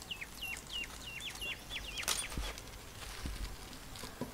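A bird calling in a quick run of about ten short, high chirps, each falling in pitch, over the first two seconds, followed by a single sharp click.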